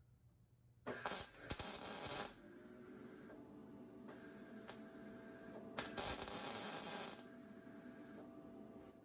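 Metalworking on steel bar: two bursts of harsh, hissing noise, one about a second in and one about six seconds in, each lasting about a second and a half. A steady machine whine runs between them.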